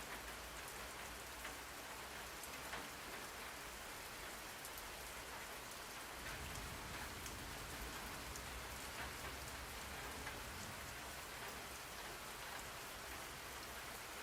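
Steady rain falling, an even hiss with scattered drops ticking through it. A little more low rumble comes in about six seconds in.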